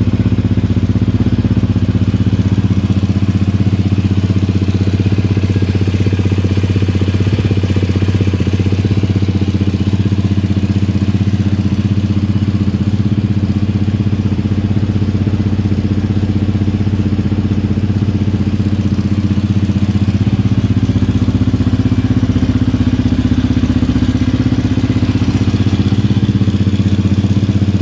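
Yamaha Raptor 700R ATV's single-cylinder engine idling steadily through a Yoshimura RS-2 full aftermarket exhaust.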